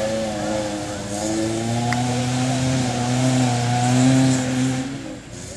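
Subaru Impreza 2.5RS rallycross car's engine running under load, its pitch wavering up and down as the throttle is worked, loudest about four seconds in, then dropping away abruptly near the end.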